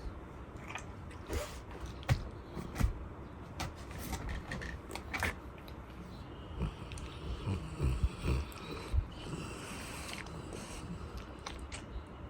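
A sleeping Great Pyrenees snuffling and smacking its mouth, with scattered small clicks and a run of soft low thumps about halfway through.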